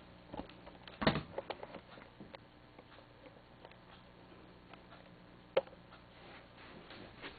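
A few scattered clicks and knocks over faint room noise, with a louder knock about a second in and a sharp click about halfway through.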